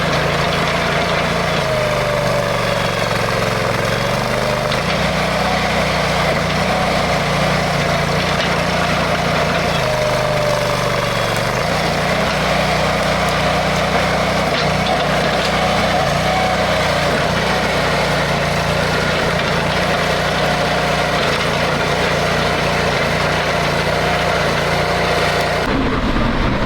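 Diesel engine of a heavy digging machine running hard under load, its speed dipping and picking up again a couple of times, with a fainter whine wavering above it.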